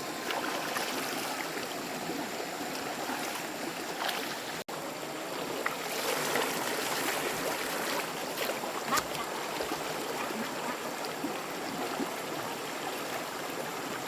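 Running water flowing steadily, like a stream, with a few small knocks. The sound cuts out for an instant about a third of the way in.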